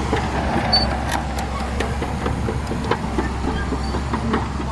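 Shantui DH17C2 crawler bulldozer's diesel engine running steadily at a low rumble, with irregular clanks and clicks from its steel tracks and blade as it works sand.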